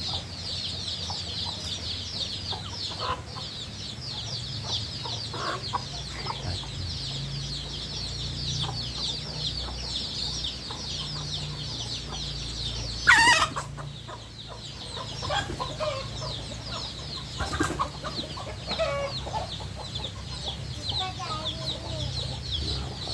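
Many chicks peeping continuously in a busy, high-pitched chorus, with a few lower calls scattered through it and one loud call about 13 seconds in.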